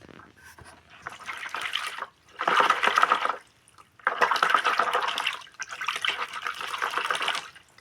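Water being poured out and splashing in several separate pours, the last one the longest.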